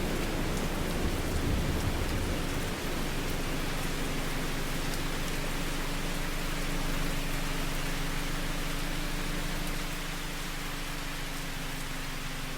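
Heavy rain pattering on a driving car's roof and windshield, heard from inside the car. A low rumble fades out over the first three seconds, after which a steady low hum sits under the rain.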